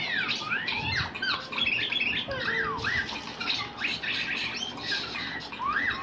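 Small birds chirping and squawking, many quick rising and falling calls overlapping one another.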